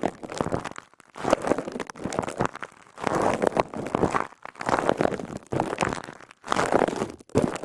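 A crackly ASMR sponge being squeezed again and again close to the microphone. It makes wet squishing and crackling bursts, about one a second, with short gaps between them.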